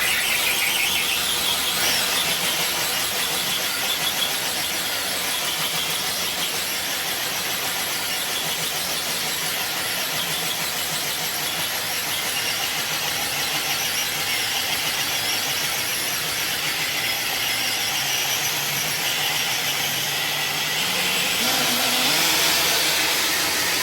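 A scale RC crawler truck's electric motor and drivetrain running under load as it drags a weighted sled, with tires scrubbing and squealing on the floor. The noise is steady throughout and cuts off suddenly at the end.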